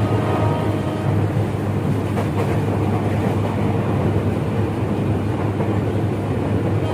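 KRL commuter electric train running at speed, heard from inside the carriage as a steady low rumble with faint steady tones above it.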